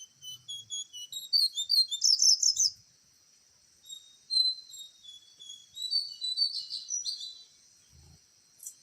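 Small birds chirping in rapid runs of short, high notes, over a steady high insect drone.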